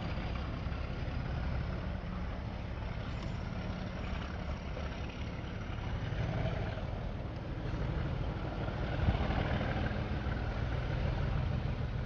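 Diesel locomotive engine running steadily, a low hum under an even rumble.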